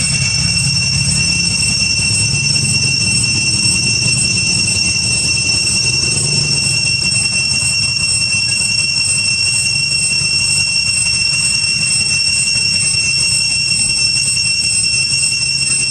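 A steady, loud high-pitched whine made of several unchanging tones, over a low rumble.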